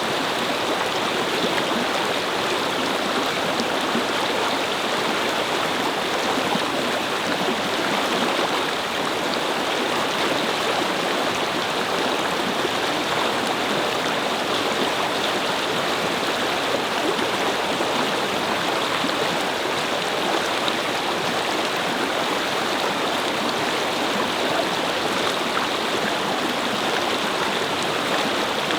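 A small brook babbling steadily over stones, an even rush of flowing water.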